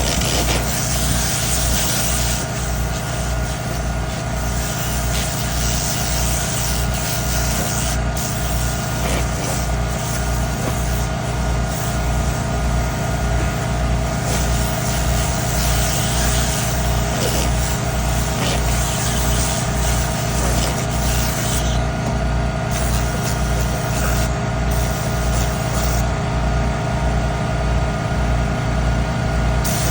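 Air compressor running with a low, even pulse, while compressed air hisses from a blow nozzle in spells, swelling and dropping off every few seconds.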